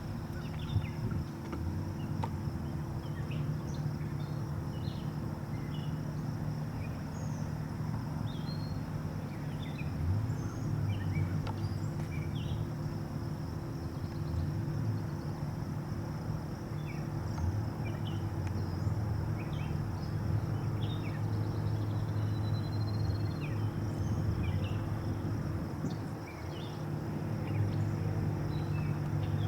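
Outdoor ambience: a steady low engine hum, like a car idling, with birds chirping in short scattered calls and a faint steady insect buzz.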